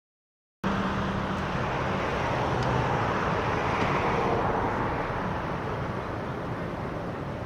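Steady outdoor traffic noise, a broad even roar with a faint low engine hum, cutting in abruptly about half a second in.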